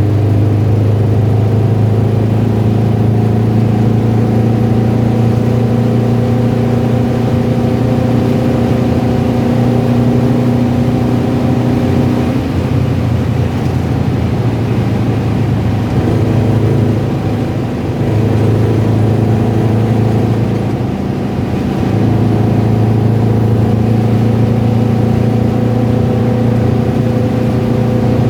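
A car engine running steadily, with a rattling, tapping noise from the engine, a fault the owner says is heard at lower revs. The engine note wavers and breaks up for several seconds in the middle.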